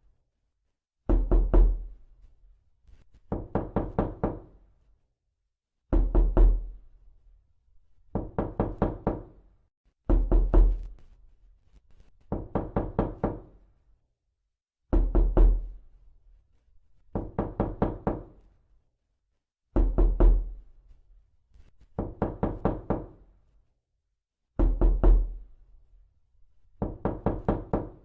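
Repeated knocking: quick rapping bursts of about five knocks each, with a new burst every two seconds or so.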